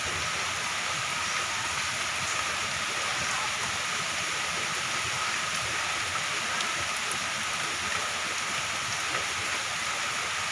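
Moderate to heavy rain falling steadily, a dense even hiss with faint scattered drop ticks.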